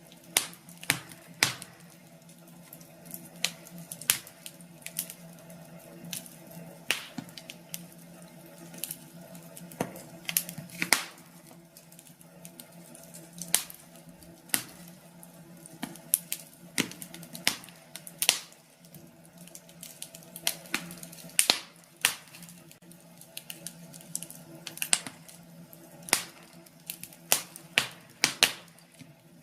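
Wood fire burning in a fireplace, crackling with irregular sharp pops and snaps, several a second at times, over a faint steady low hum.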